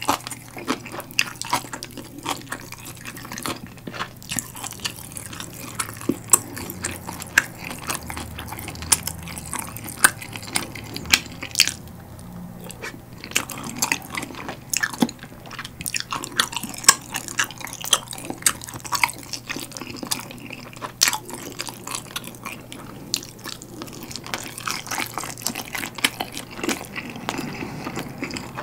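Close-miked eating: biting and chewing sauce-glazed grilled chicken (BHC Galbileo), with many short, sharp, wet clicks and smacks of the mouth and sticky sauce.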